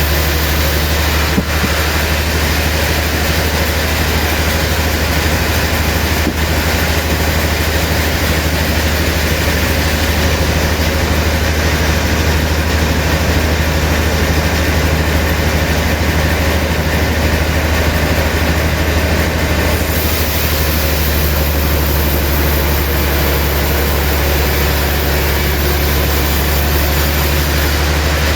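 Sawmill machinery running steadily, with a strong low hum and a constant noisy rush, and a light knock about a second in.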